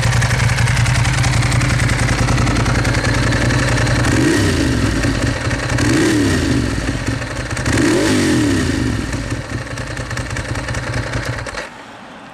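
Ducati Monster S4RS's L-twin engine with a custom exhaust idling, then blipped three times with short throttle revs about two seconds apart, settling back to idle before it is switched off near the end.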